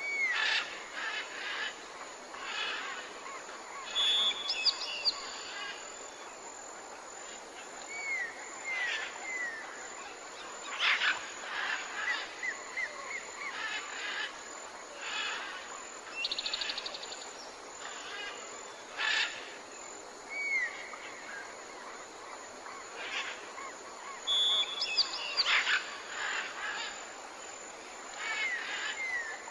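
Several birds chirping and calling over a steady background hiss: short slurred whistles, quick runs of chirps and a brief buzzy trill. The same run of calls comes round again about twenty seconds later.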